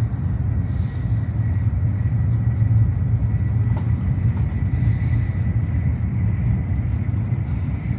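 Shinkansen bullet train running at speed, heard inside the passenger cabin: a steady low rumble with a faint steady high whine.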